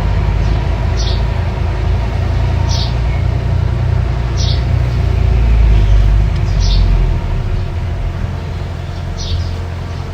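Small bulldozer's engine running with a steady low rumble, heavier for the first seven seconds or so and then easing off. Short high chirps recur every second and a half to two seconds over it.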